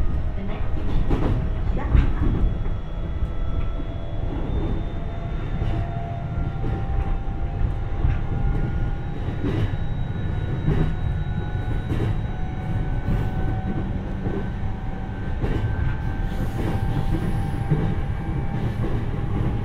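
Interior running sound of an E531 series electric commuter train's motor car at speed: a steady low rumble with wheel clicks over rail joints, and a faint whine that slowly rises in pitch.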